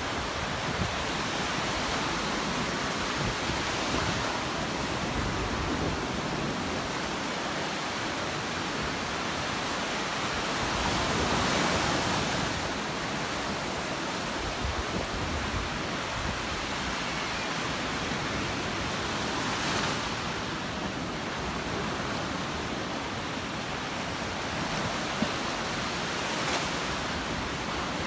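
Surf washing onto the beach, a steady rush of breaking waves that swells a little about eleven seconds in, with wind buffeting the microphone.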